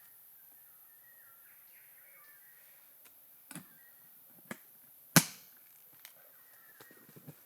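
Clicks and knocks of a camera trap's kit being handled, the loudest a sharp snap about five seconds in. A bird chirps faintly over the first few seconds.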